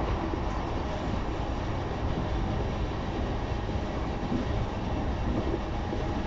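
Running noise heard inside a JR East E233-0 series electric commuter train travelling between stations: a steady, mostly low rumble of wheels on rail and the moving car.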